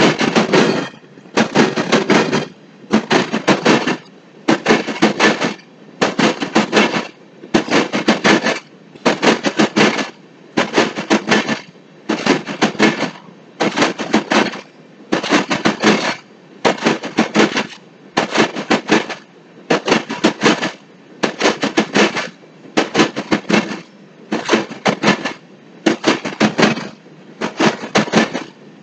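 Empty gravel cars of a passing freight train clattering over the track: a burst of rapid metallic clacks about every 1.2 seconds, in a steady rhythm.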